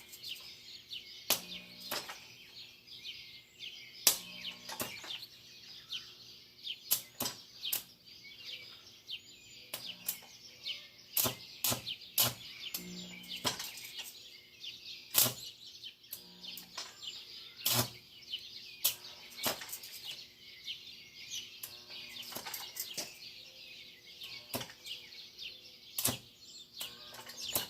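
Stick (arc) welder burning a 7018 rod: a steady crackle with frequent sharp pops and sputters, at an amperage low enough that the rod has trouble holding an arc.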